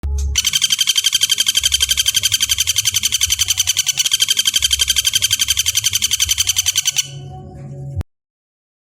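Common flameback woodpecker (pelatuk bawang) giving a long, rapid trilling rattle of even, high notes, about nine a second, for about seven seconds, followed by a brief quieter sound that cuts off suddenly.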